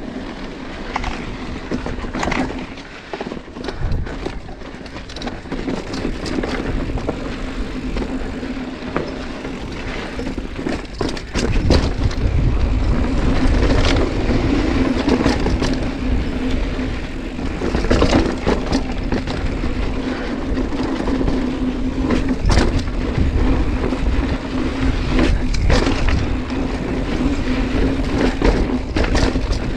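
Mountain bike ridden over rough, rocky trail, with many sharp clicks, knocks and rattles over the steady noise of the ride, growing louder about twelve seconds in. The banging is chain slap: the chain is hitting the frame because the rear derailleur clutch was left switched off.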